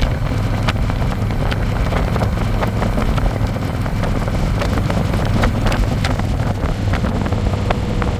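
Harley-Davidson Electra Glide's V-twin engine running steadily at riding speed, with wind rushing and crackling over the microphone.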